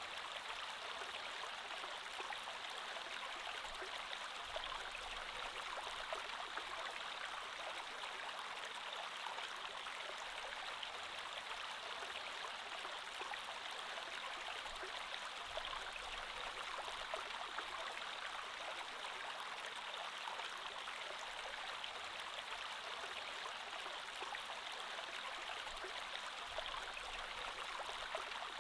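Creek water flowing steadily, a continuous even rush of running water with faint small splashes and ticks.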